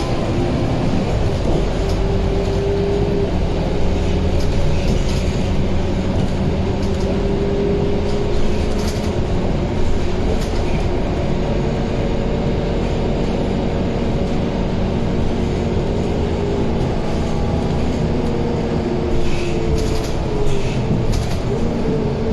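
Scania K230UB city bus's five-cylinder diesel engine and driveline running under way: a steady drone with a whining tone that drifts up and down a little, and scattered light rattles.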